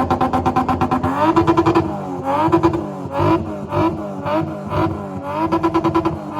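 Car engine revved hard: it is held high with a rapid, even stutter for about a second, then blipped in repeated short surges, about two a second, the pitch dipping and climbing each time.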